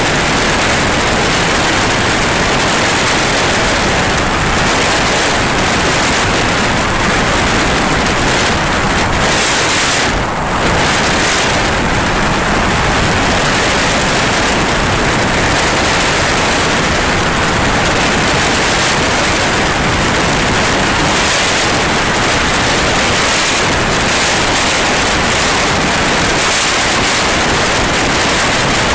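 Steady, loud rushing noise of a light aircraft in flight, engine and airflow blended together, with a brief dip about ten seconds in.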